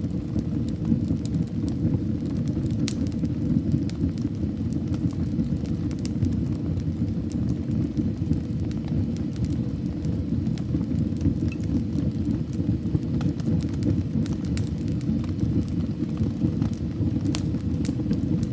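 Fireplace fire burning steadily: a constant low rumble of flames with scattered sharp crackles and pops of burning wood.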